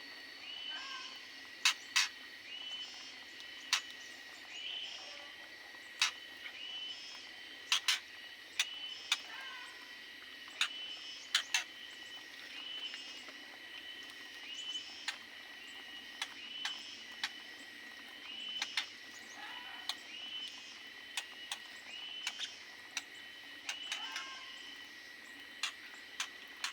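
Small aviary birds chirping short calls over and over, about once a second, with sharp clicks and taps scattered among them and a faint steady high tone underneath.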